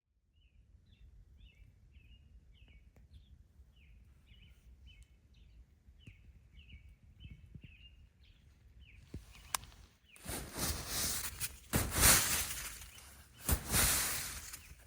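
A bird singing a quick run of short, high chirps over a faint low rumble. About ten seconds in, loud, irregular bursts of rough noise take over.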